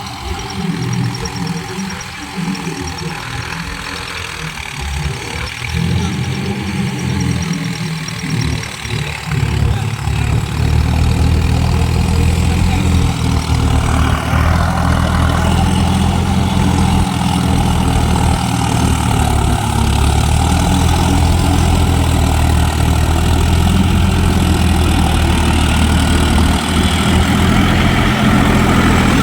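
Tractor diesel engine running steadily, growing louder and heavier about a third of the way in.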